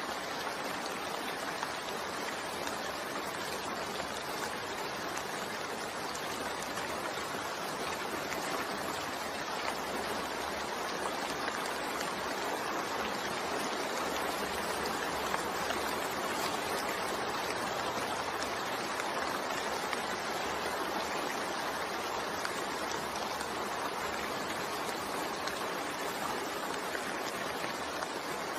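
Steady rain falling, an even continuous hiss with no single drops or other events standing out.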